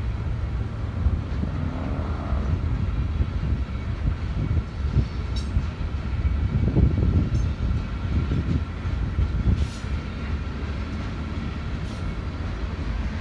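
Freight cars of a passing train rolling by: a steady low rumble of wheels on rail, swelling a few times, with a faint steady high whine above it.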